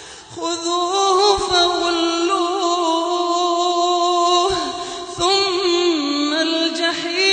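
A solo voice chanting Quran recitation in melodic tajweed style. It draws out long, ornamented held notes, begins about half a second in, and breaks briefly a little past halfway before carrying on.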